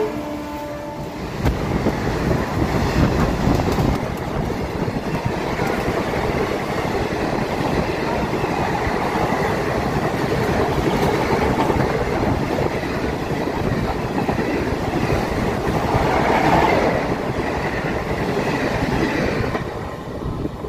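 Indian Railways passenger coaches rushing past close by at speed: a steady rumble with the clickety-clack of wheels over the rail joints. The sound drops away near the end as the last coach passes.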